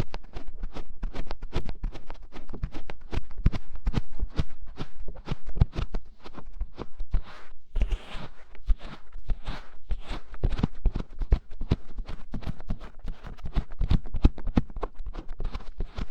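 Close-up ASMR scratching and tapping of fingers on a binaural microphone's ears: a dense run of rapid clicks and scratches. There is a short break about halfway, followed by a brief rustle.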